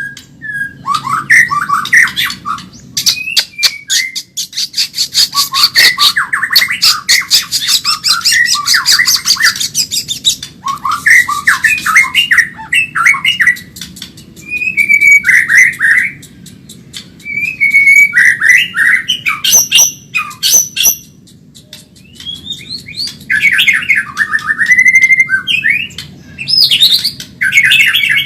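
White-rumped shama (Medan-type murai batu) singing fast, varied phrases of whistles and chatter, broken by short pauses. Runs of rapid clicking notes come in about five seconds in and again near twenty seconds.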